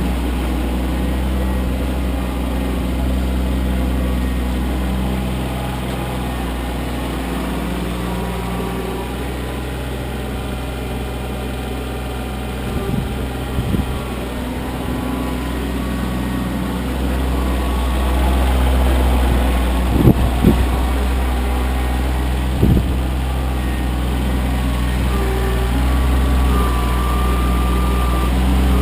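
Kioti CK25 compact tractor's diesel engine running steadily while plowing snow, getting louder about two-thirds of the way through, with a few short clunks.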